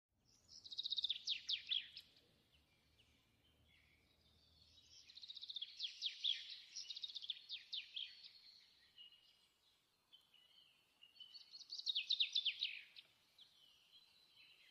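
Songbird singing: three bouts of rapid, falling chirps, about a second in, again from about five to nine seconds, and once more around twelve seconds.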